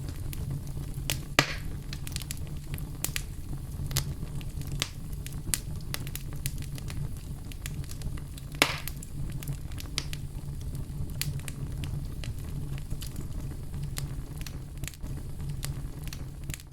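Campfire crackling: burning wood giving off many small sharp pops over a steady low rumble, with two louder pops, one about a second and a half in and one near the middle.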